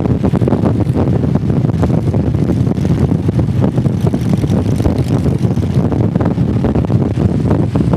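Motorcycle engine running steadily while riding at cruise, mixed with wind noise on the microphone.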